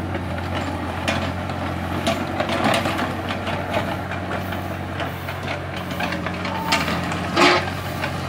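Small hydraulic excavator's diesel engine running steadily, with scattered short knocks and clatter from the working machine, the loudest about seven and a half seconds in.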